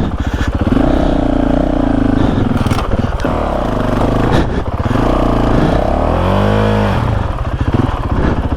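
Honda CRF450RL dirt bike's single-cylinder four-stroke engine revving up and down under load while riding a trail. About six seconds in there is a clear rise and fall in revs.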